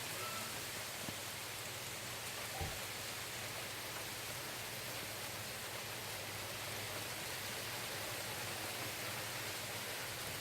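Steady rain falling, an even hiss with no let-up, with one soft knock about two and a half seconds in.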